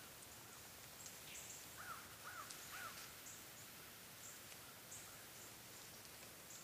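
Near-quiet woodland with a bird calling faintly three times in quick succession about two seconds in, and short high chirps scattered throughout.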